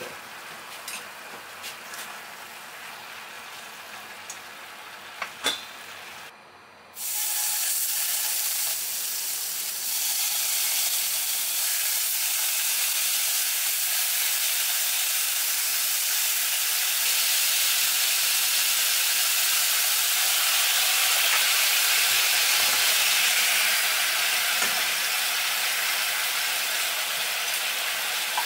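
Thinly sliced marbled beef frying in sukiyaki sauce in a nonstick pan: a loud, steady sizzle that starts about seven seconds in, with the slices turned by wooden chopsticks. Before it, a quieter hiss of cabbage and carrots cooking in a stainless pan with a splash of water, with a few light clicks.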